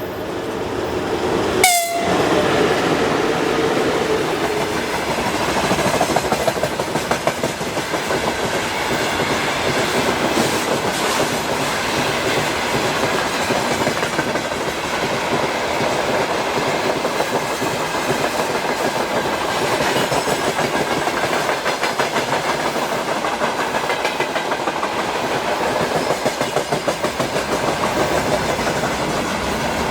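Train passing at close range, its wheels clattering steadily over the rail joints, with a sharp crack about two seconds in.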